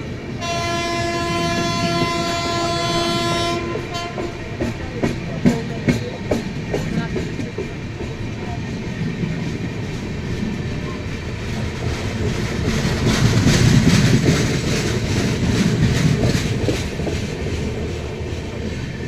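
A passing passenger train's coaches running by close alongside on the adjacent track, heard from aboard a moving train. A train horn sounds steadily for about three seconds near the start. Then the wheels clatter over rail joints in sharp clicks above a rumbling hiss that swells in the middle and eases off near the end.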